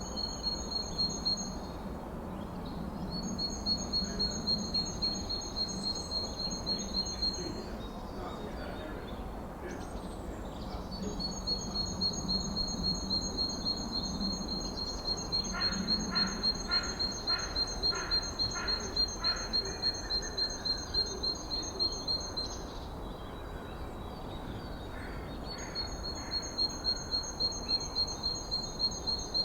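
Forest ambience with long high-pitched pulsing trills, each running for several seconds at about three pulses a second, coming in four bouts. Around the middle comes a shorter series of lower, evenly spaced calls, all over a steady low background hiss.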